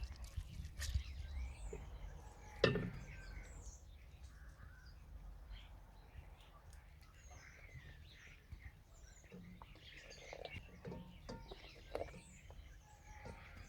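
Faint outdoor background of small birds chirping in short scattered calls over a low steady rumble, with one sharp knock about two and a half seconds in.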